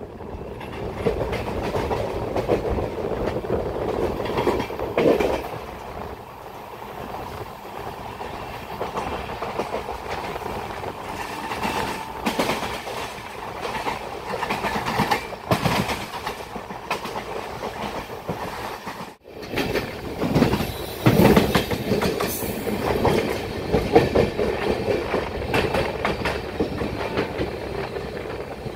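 Passenger express train running over rail joints and points as it pulls into a station, heard from a coach doorway: continuous wheel clatter and rumble, louder after a brief drop about two-thirds of the way through.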